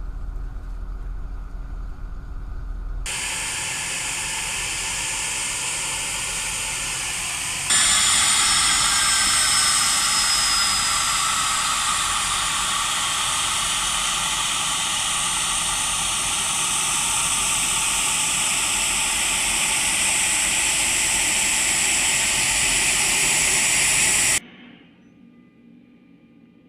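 Jet aircraft engine noise: a low rumble for the first few seconds, then a loud steady rushing hiss with high whining tones. It jumps louder about eight seconds in, with a falling whine, and cuts off suddenly near the end.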